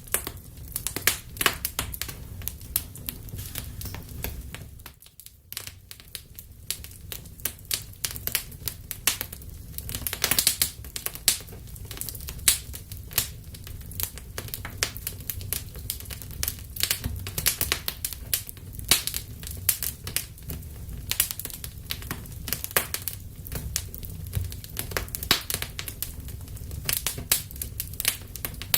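Wood fire burning in a fireplace: a dense, irregular crackling of sharp pops and snaps over a low steady rumble of the flames, dropping briefly about five seconds in.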